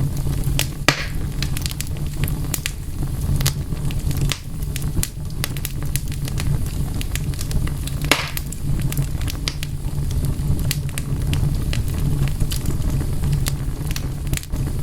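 Wood fire crackling: a steady low rumble of burning with a dense scatter of small pops and snaps, and two louder pops, one about a second in and one about eight seconds in.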